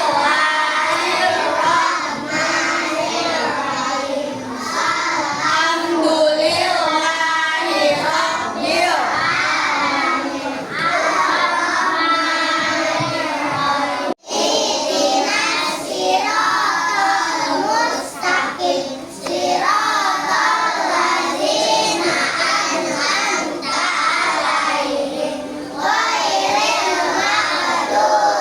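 A class of young children reciting a prayer together in a sing-song chant, led by one child. The sound cuts out suddenly for an instant about halfway through.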